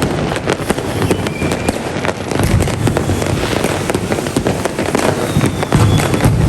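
Many fireworks going off together: a dense, continuous crackle of small bangs with heavier booms now and then, and a few faint whistles.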